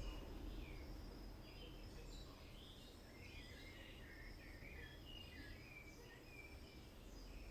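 Faint birds chirping, many short calls, over a low steady background rumble.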